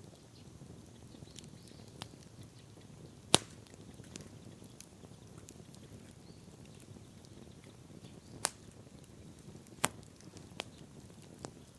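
Wood bonfire crackling: sharp pops every second or two, the loudest about three seconds in, over a low steady rumble.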